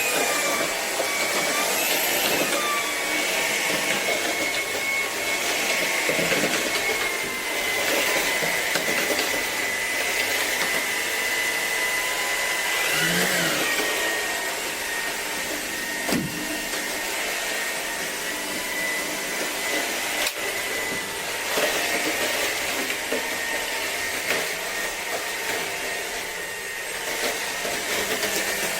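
Shark PowerDetect cordless vacuum running: a steady high motor whine over rushing air. The whine drops out about two-thirds of the way through while the airflow noise goes on.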